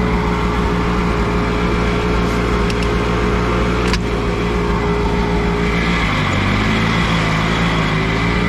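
Allis-Chalmers G tractor's four-cylinder gasoline engine running steadily as the tractor is driven, its speed shifting slightly about six seconds in, with a sharp click about four seconds in. The owner suspects stale gas may have gummed up its carburetor.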